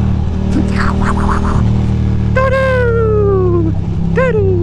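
Ducati Monster 821's V-twin engine idling steadily. Over it, about halfway through, comes a long voice-like wail falling in pitch, then a shorter one that rises and falls near the end.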